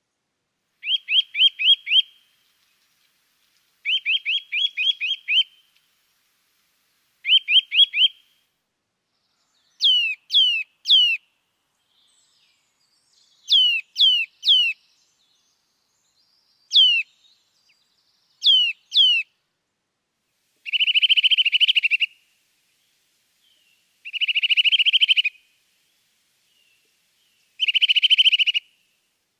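Small songbirds calling in short phrases with clean silences between them. There are three runs of quick chirps, then three groups of sharp downward-sliding whistles, and near the end three harsher, buzzy chattering phrases.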